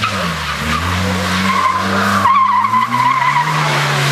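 Car tyres squealing as the car is slid through a tight turn, with the engine revving up and down beneath the screech.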